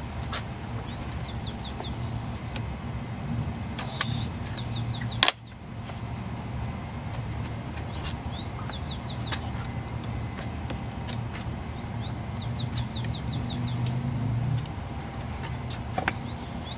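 A bird singing a short phrase of four or five quick rising chirps, repeated about every four seconds, over a steady low hum. Two sharp clicks come about four and five seconds in.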